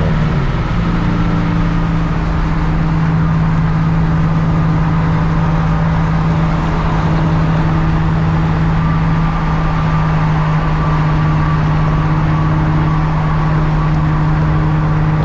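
Car engine and road noise at a steady cruising speed: one constant engine drone that dips slightly in pitch at the start, then holds even.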